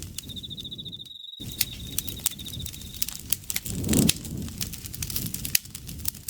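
Campfire burning, with a low rumble, scattered sharp crackles and pops, and a swell about four seconds in. Over it an insect trills steadily at a high pitch and stops about three seconds in. All sound drops out for a moment just after the first second.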